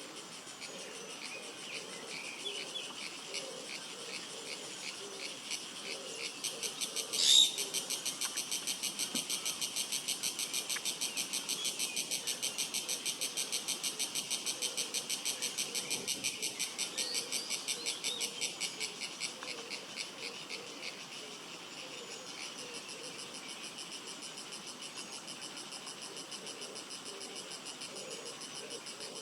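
Insects singing in a steady, rapidly pulsing high trill. The trill swells louder from about six seconds in and fades back about twenty seconds in. A sharp, loud high chirp stands out about seven seconds in, with faint short chirps scattered through.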